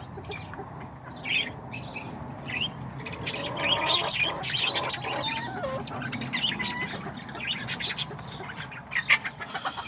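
A cage of parakeets chattering, with many short, sharp chirps and squawks and some warbling, plus occasional wing flutters.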